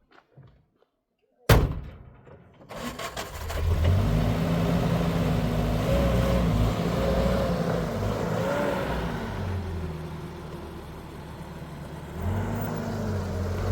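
A sharp thump like a car door shutting, then a car engine starts and runs, its pitch rising and falling as it is driven. It eases off around ten seconds in and picks up again near the end.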